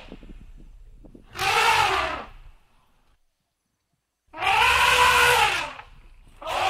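Elephant trumpeting: three loud calls, each about a second or more long, the pitch rising and then falling within each call.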